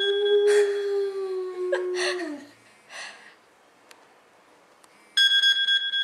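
White boxer dog howling one long, steady note that sags in pitch and stops about two seconds in, set off by a mobile phone ringtone. After a fairly quiet pause, the phone's electronic ringtone starts loudly again about five seconds in.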